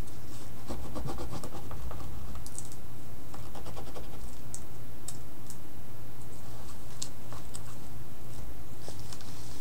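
Light scratching with scattered small clicks and taps of hands working paper and art materials on a work surface, over a steady low hum.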